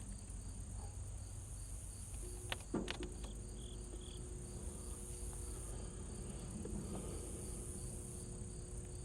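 Crickets chirping steadily with an even pulsing beat. About two and a half seconds in come a few sharp metallic clicks as battery-charger clamps go onto the battery terminals, then a faint steady hum begins.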